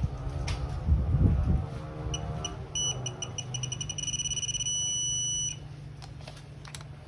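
Digital torque wrench beeping faster and faster as a cylinder head bolt is pulled up toward its set torque, then sounding one steady tone for about a second when the target torque is reached. There is a loud low thud about a second in.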